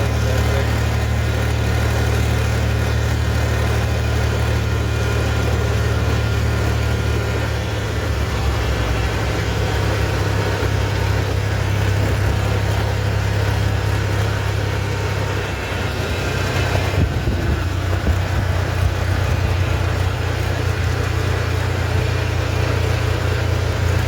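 Tractor engine running steadily under way, a strong low hum. Its note shifts about a third of the way in and dips briefly about two-thirds through before picking up again.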